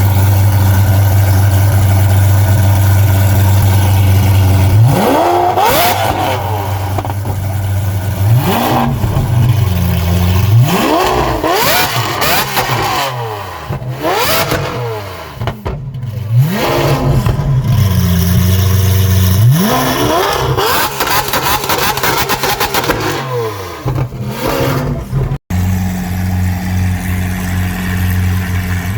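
A sports car engine idling steadily, then revved hard again and again in quick blips. Its pitch sweeps up and drops back to idle each time.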